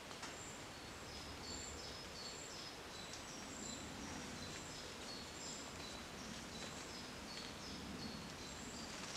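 Quiet woodland ambience with a small bird singing, short high notes repeated a few times a second.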